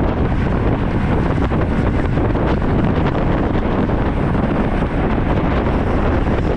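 Steady, loud wind buffeting the microphone of a camera riding along on a road bicycle.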